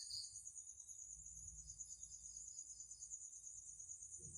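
Crickets chirping steadily, a faint, high-pitched pulsing trill.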